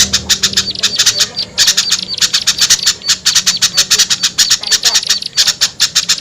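Noisy chattering and scolding calls of several small songbirds, played as a lure call for small birds: many short harsh notes in quick succession, about eight to ten a second, with brief pauses about one and a half and five and a half seconds in.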